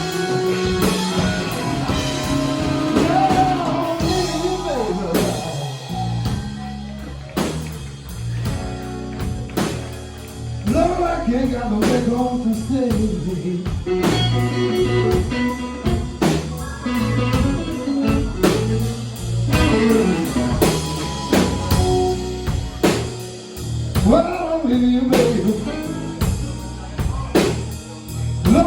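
Live blues band playing: an electric guitar leads with bending, sliding notes over a steady drum beat.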